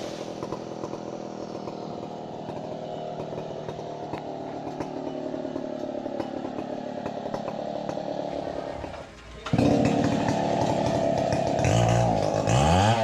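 Chainsaw engine running at a steady speed, then much louder from about nine seconds in. Near the end its revs rise and fall over and over.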